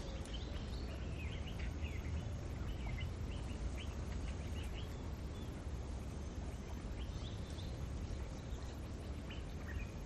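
Small birds chirping in short, scattered notes, thick through the first half and again near the end, over a steady low background rumble. No peacock call is heard.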